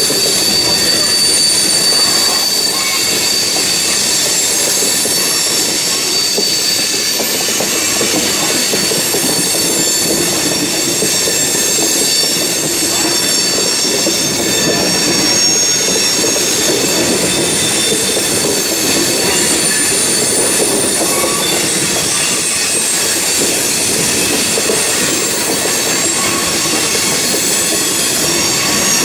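Loaded coal hopper cars of a freight train rolling past, with a steady rumble and rattle. Their steel wheels squeal in several high, steady tones.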